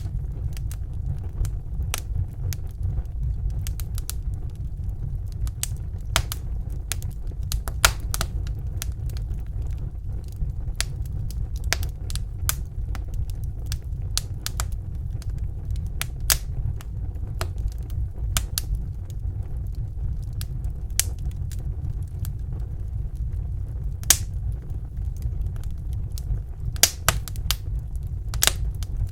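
Fireplace fire crackling: irregular sharp pops and snaps, a few of them louder, over a steady low rumble.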